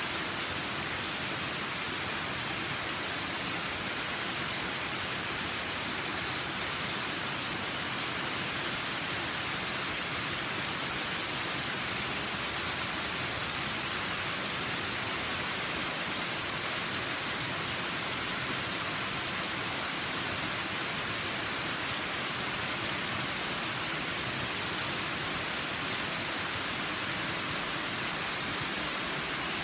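Waterfall running full after heavy rain: a steady rush of falling water.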